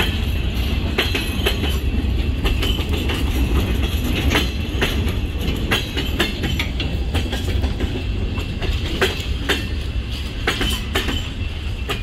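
Freight train of boxcars rolling past close by: a steady low rumble with irregular sharp clacks as the wheels cross rail joints.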